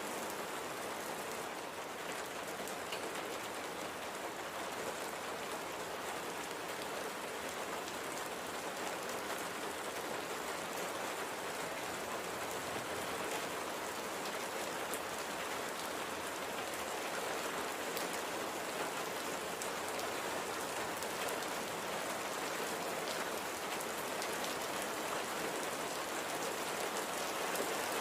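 Steady light rain falling on a surface, an even patter of many small drops.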